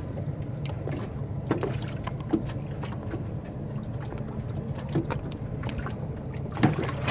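Water lapping and knocking against a stopped boat's hull, with a few small knocks over a low steady rumble.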